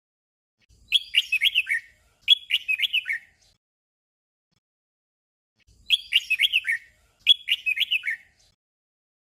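Red-whiskered bulbul singing a short warbled phrase twice in quick succession, the 'double' song. The pair of phrases comes twice, about five seconds apart.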